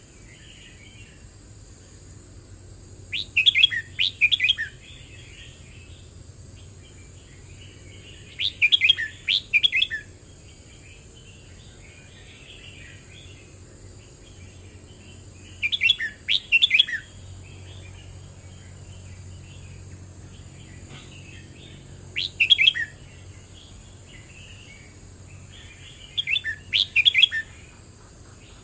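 Red-whiskered bulbul singing: five short, fast warbling phrases, each about a second long and several seconds apart, with softer chirping between them.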